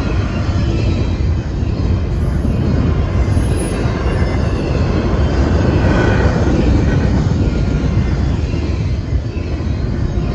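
Double-stack intermodal freight train's container-laden well cars rolling past: a steady rumble of steel wheels on the rails.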